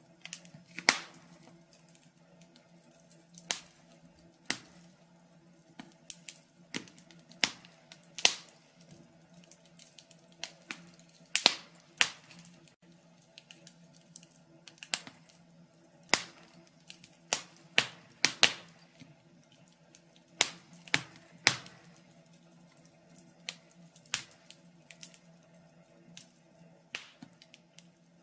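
Wood fire crackling in a fireplace: irregular sharp pops and snaps from the burning logs, a few louder cracks among many small ones, over a faint steady low hum.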